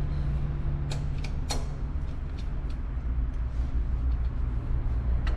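Steady low rumble in the background, with a few light metallic clicks from tools and bolts as the engine cover bolts are started and brought down.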